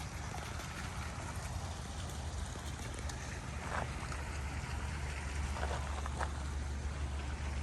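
Steady low rumble of wind on the microphone with an even hiss over it, and a few faint short chirps or clicks in the second half.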